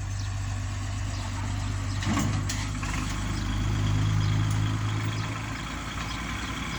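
Kubota tractor's diesel engine running steadily, with a couple of sharp clanks a little after two seconds in. The engine grows louder around the middle, then eases off.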